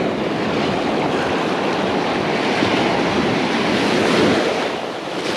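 Ocean surf breaking and washing up the beach, a steady rushing that swells a little about four seconds in, with wind on the microphone.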